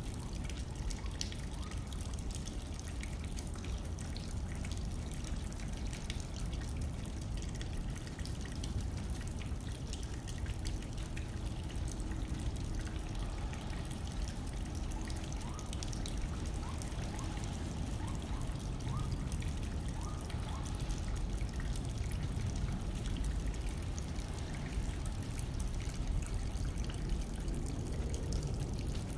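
Steady rain hitting a window, with many small scattered drop ticks over a constant low rumble of wind.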